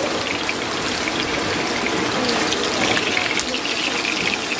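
Steady sizzling of brisket yakisoba frying on a hot griddle, with a fine crackle over an even hiss.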